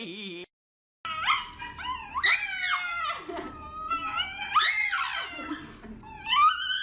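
A dog howling and whining in a run of cries that glide up and fall back in pitch, starting about a second in.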